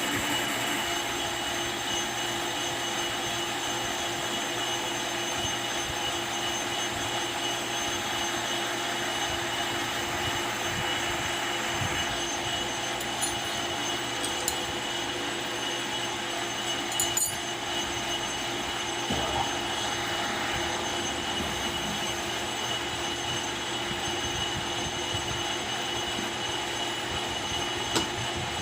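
Metal lathe running steadily, a constant mechanical whine with several held tones over a steady hiss, broken by a few sharp clicks.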